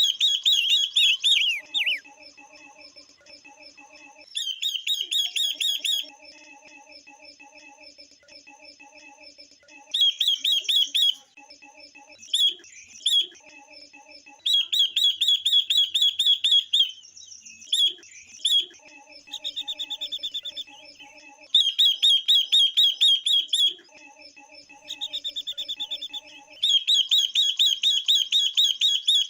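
Female silver-eared mesia and female red-billed leiothrix calling: repeated bursts of fast, high chattering notes, each one to three seconds long, with a softer, lower pulsing run of notes in the gaps. These are female calls played to excite male birds.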